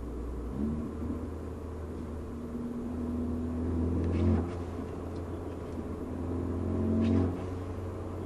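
Mercedes CLA car engine pulling under load, building twice to a louder peak, about four and about seven seconds in, and dropping off sharply each time, over a steady low drone.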